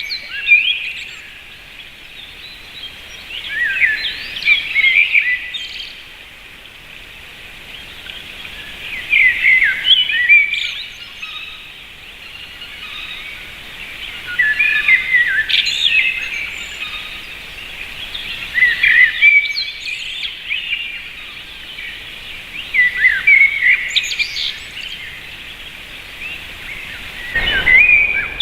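A bird calling in short, jumbled phrases of chirps and quick whistles, one phrase about every four to five seconds.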